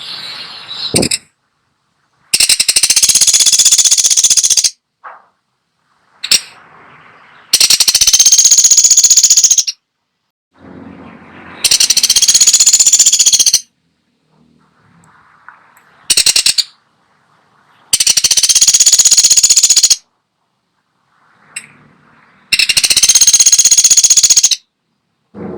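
Woodpecker (pelatuk sampit) giving fast, high-pitched rattling call series, five bursts of about two seconds each, with a few short single calls in between.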